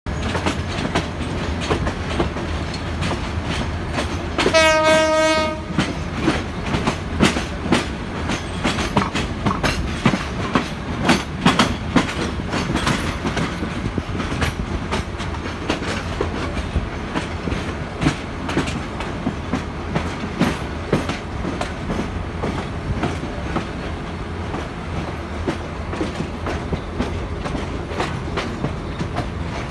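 Passenger train of PT Inka coaches running through station approach trackwork, heard from aboard: a steady rumble with many sharp clicks and clatters as the wheels cross rail joints and points. A train horn sounds once for about a second, about four and a half seconds in.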